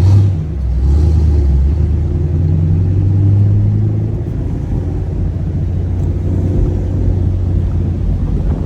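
Chevrolet Camaro SS 1LE's naturally aspirated V8 running at a low, steady rumble while cruising.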